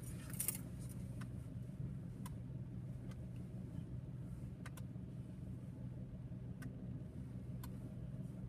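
Car engine idling: a low, steady hum with a few faint, scattered ticks.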